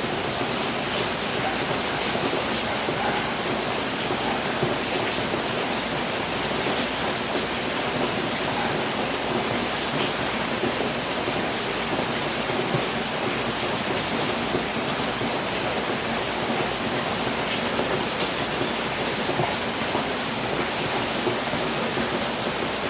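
Steady rain falling on a house roof, an even unbroken patter with a thin high-pitched tone running through it.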